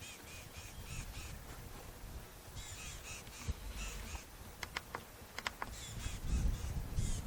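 A bird giving harsh, rapid calls in three runs of about five or six notes a second, with a few short clicks between the runs and a low rumble rising near the end.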